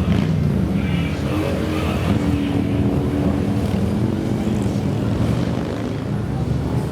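Engines of a column of motorcycles running together as the riders set off, a steady mass of overlapping engine notes.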